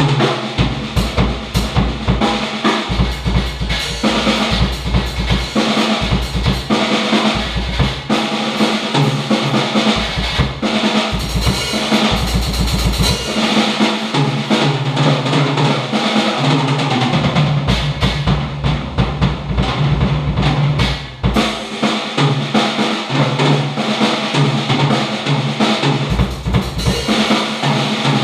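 A drum kit played fast and hard, with quick runs of bass drum strokes under snare hits and cymbal wash.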